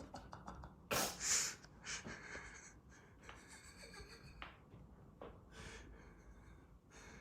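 A person breathing hard and sniffing, with two sharp, louder breaths about a second in and softer breaths and sniffs after.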